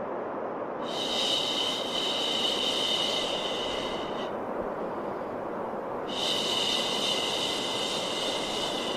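Two long 'shhh' hushing sounds, each about three and a half seconds, starting about a second in and again about six seconds in, over a steady white-noise bed, a looped soothing track for calming a baby.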